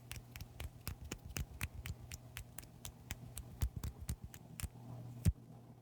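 A rapid run of small sharp clicks or taps, about five a second, over a steady low electrical hum, with one louder knock near the end.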